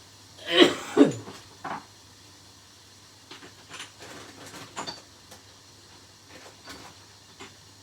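Kitchen containers and spice jars being moved and knocked about while someone rummages for a jar. There are two louder clatters about half a second and a second in, then lighter clicks and taps.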